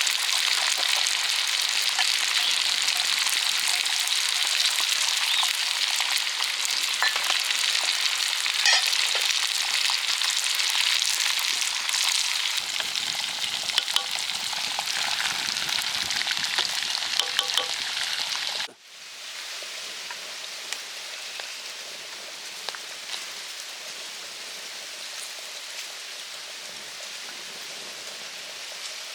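Food frying in oil in a pan, a dense sizzle with occasional sharp clicks of a utensil against the pan. About two-thirds of the way through it cuts off abruptly to a quieter, steady hiss.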